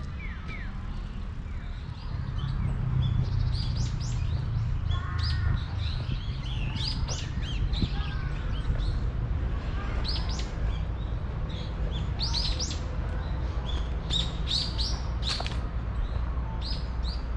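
Small birds chirping in the trees, many short high chirps coming thick and fast, over a steady low rumble.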